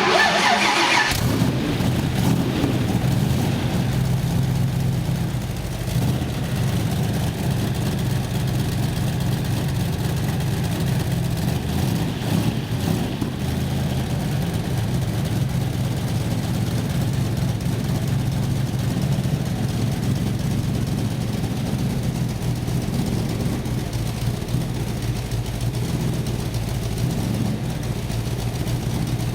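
Shelby Engine Company 427 FE aluminium-block V8 in a Shelby Cobra starting: it catches within the first second, then runs steadily with a deep, even note. This is the engine's first start after the car was newly built.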